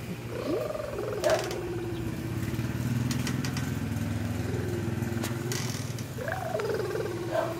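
Motorcycle engine running at idle, a low steady hum that thickens slightly midway. Drawn-out wavering vocal sounds come over it near the start and near the end, and a sharp click comes just over a second in.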